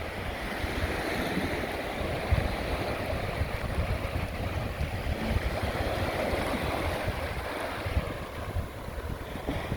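Sea surf washing in along the shore, with wind buffeting the microphone in irregular low gusts.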